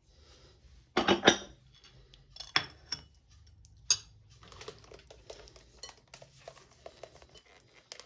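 Kitchen pots and a utensil clattering as batter is handled: a quick cluster of loud knocks and clinks about a second in, single knocks at about two and a half and four seconds, then a run of light clinks and scrapes.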